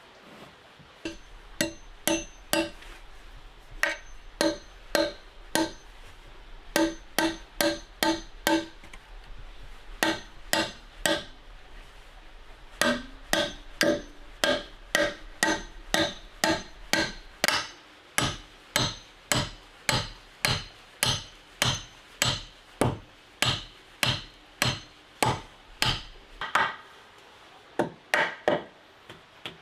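Repeated sharp tool strikes at a steady pace of about one to two a second, broken by short pauses, each blow leaving a brief ringing note.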